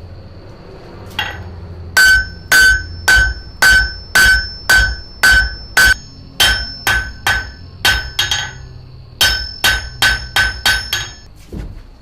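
Blacksmith's hammer striking metal on an anvil in three runs of even blows, about two a second, with a short pause between runs. Each blow has a bright metallic ring.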